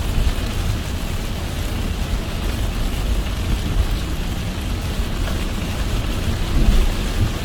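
Car driving in heavy rain: a steady hiss of rain over a low rumble of the car and its tyres on the wet road, swelling slightly near the end.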